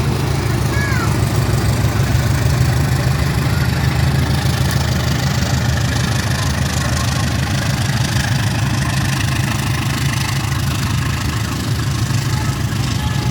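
Diesel locomotive's prime mover running steadily at idle, a deep even hum.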